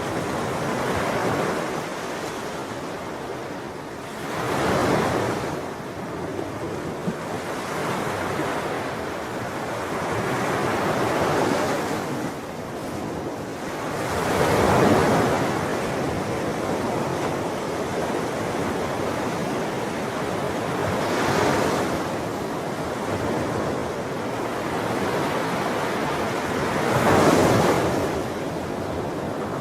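Ocean waves breaking and washing on a shore, a steady surf hiss with larger swells rising and falling every several seconds, four of them standing out.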